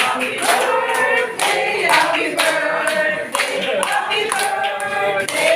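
A group of people singing together with scattered hand clapping.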